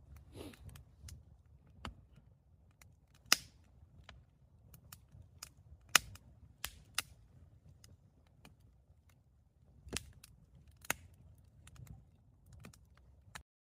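Wood campfire crackling: irregular sharp pops and snaps, the loudest about three seconds and about six seconds in, over a low rumble. It cuts off just before the end.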